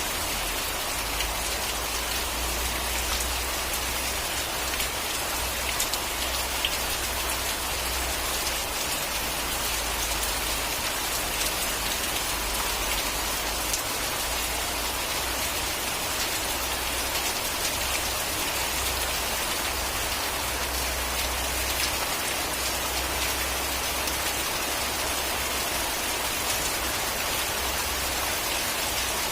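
Steady rain falling on a surface, with fine scattered drop ticks and a low rumble underneath that comes and goes.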